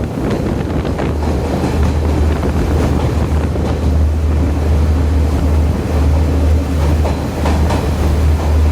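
Diesel intercity train running at speed: a steady low rumble under a rushing noise, with a couple of faint knocks near the end.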